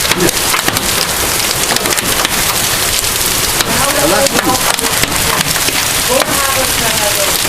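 Heavy rain mixed with hail beating on hard surfaces: a steady dense hiss full of sharp ticks and clicks from hailstones.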